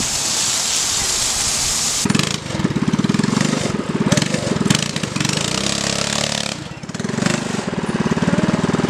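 Harbor Freight Predator 212cc single-cylinder engine running hard, coming in about two seconds in after a steady rushing hiss; its speed drops briefly around the middle and then picks up again.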